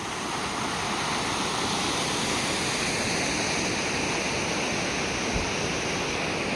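Steady rushing of a waterfall, fading in over the first second.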